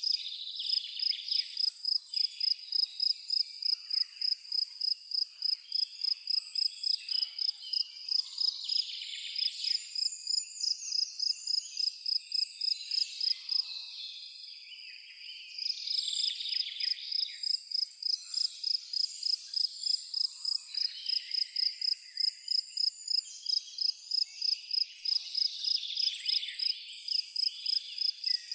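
A cricket chirping in a steady high-pitched pulse, about three to four chirps a second, falling silent briefly about halfway through, with songbirds singing around it.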